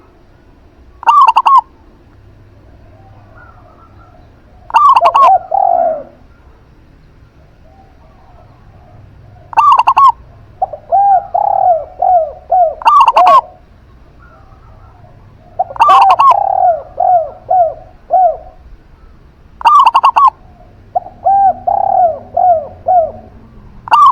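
Zebra dove (perkutut) and spotted dove (derkuku) cooing in turn. Short, loud, higher calls come about every three to four seconds, and between them are runs of four or five softer, lower coos in quick succession.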